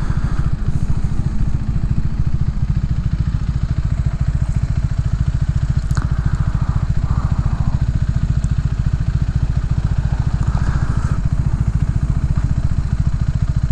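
Motorcycle engine running steadily, a deep even pulse with no revving or change in pitch.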